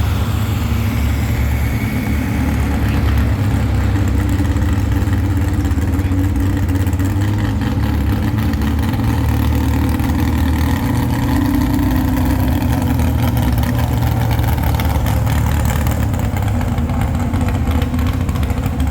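Engine of a 1978 Chevrolet pulling truck running loud and steady, its pitch wavering slightly.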